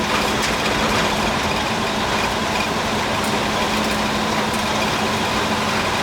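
Car running slowly over a rough gravel road base: steady engine drone and tyre noise, with a few light ticks from loose stones.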